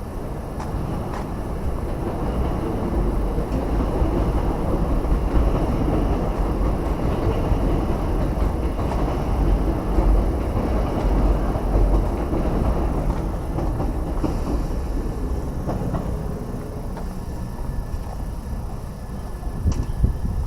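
A train passing close by: a heavy rumble and rail noise builds over the first few seconds, holds through the middle, and eases off in the last third. A sharp click comes near the end.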